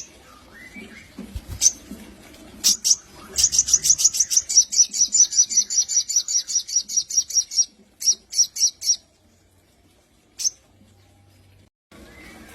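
A sogon, a small sunbird, singing: a few single sharp high chirps, then a fast, even trill of about eight high notes a second lasting some four seconds. Four more notes follow, then one last chirp, and it falls quiet.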